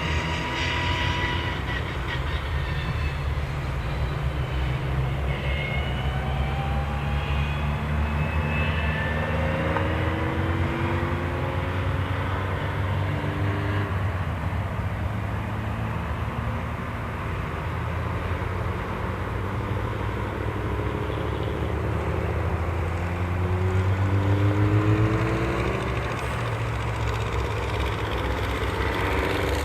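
Engines of a procession of classic and retro cars running at parade pace, a steady mixed drone with several engine notes rising and falling as cars go by. One car comes through louder about three-quarters of the way through.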